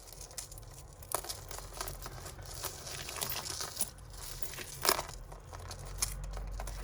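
Beaded necklaces being handled: beads clicking against each other with a crinkling rustle, and a few sharper clicks, the loudest about five seconds in.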